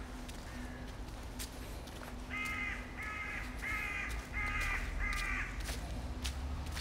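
A bird giving five harsh cawing calls in a quick even series starting about two seconds in, each call under half a second long, with faint scattered clicks of footsteps underneath.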